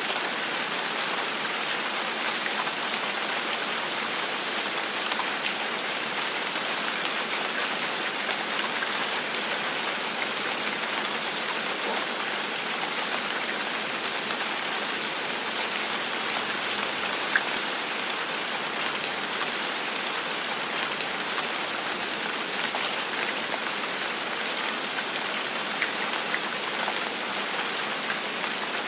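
Steady, gentle rain falling on a surface, an even hiss sprinkled with the small ticks of individual drops.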